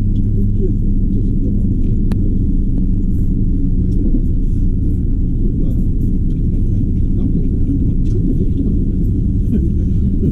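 Interior running noise of a JR Kyushu electric limited express train: a steady low rumble with a constant hum, and one sharp click about two seconds in.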